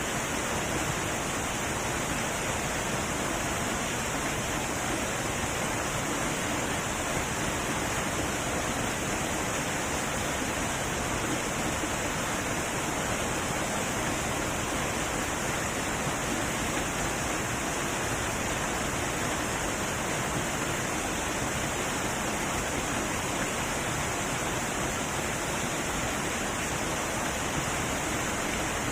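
Heavy waterfall, a steady rushing roar of falling water with no breaks or changes.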